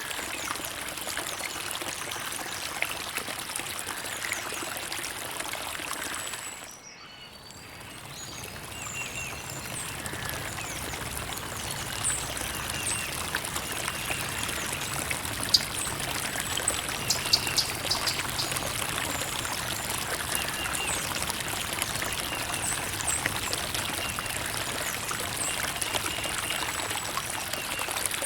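Creek water trickling and splashing steadily over rocks. It dips briefly about seven seconds in and swells back, with a fuller, lower rush after that and faint high chirps in the background.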